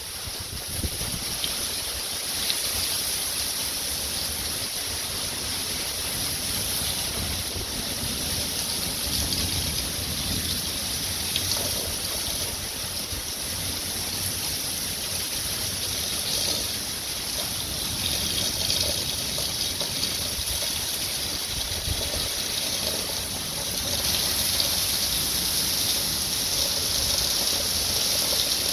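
Heavy wind-driven rain in a thunderstorm: a steady hiss of pouring rain, with uneven low rumbles of wind gusting against the microphone. It grows a little louder about two-thirds of the way through.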